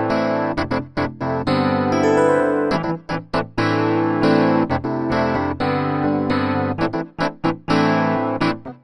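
Arturia AstroLab 37 stage keyboard playing an electric-piano-like patch: sustained chords broken up by short, choppy staccato stabs.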